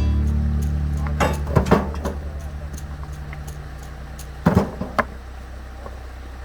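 Tractor engine running steadily and gradually fading away, with a few sharp knocks and clunks.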